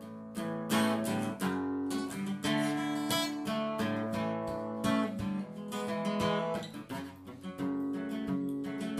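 Acoustic guitar strummed in an instrumental break, chords ringing between frequent strokes.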